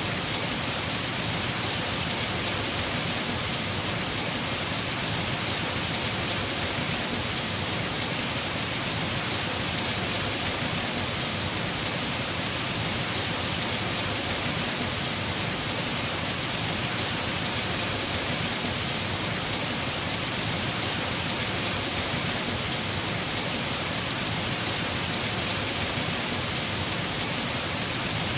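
Heavy rain falling steadily on a house roof, an even unbroken hiss of drops.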